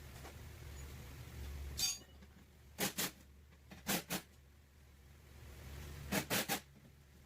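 A low machine hum cuts off about two seconds in, then short sharp metal taps come in pairs and threes, as of a body hammer tapping out sheet-metal panel work.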